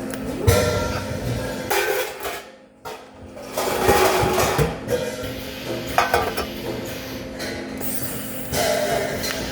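Metal clattering and clanking in several short bursts over a steady hum, as from metal pieces being handled in a welding shop.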